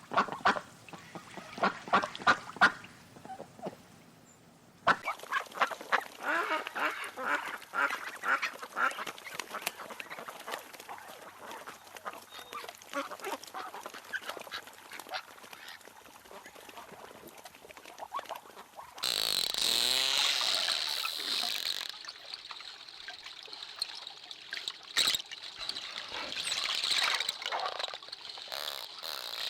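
Birds calling, with rapid, repeated harsh calls much like those of ducks or geese. About 19 s in the sound changes to a louder rushing noise with a steady high tone and scattered calls.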